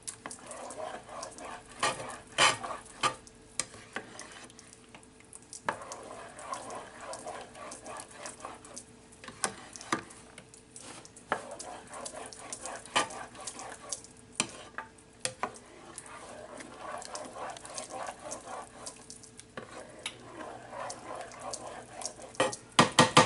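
A sauce of beef broth and flour simmering and sizzling in a frying pan while it is stirred, with frequent knocks and scrapes of the utensil on the pan. The knocks are loudest in a quick cluster near the end.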